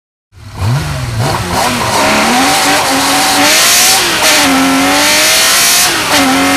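Porsche 911 Carrera RSR's flat-six race engine accelerating hard, its pitch climbing through the revs. It upshifts twice, with a sharp drop in pitch about four seconds in and again about six seconds in.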